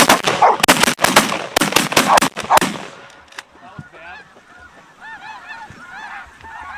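A rapid volley of about ten shotgun blasts from several hunters over the first three seconds, over snow geese honking. After the shooting the snow goose calls carry on, high arched yelps repeating at an even pace.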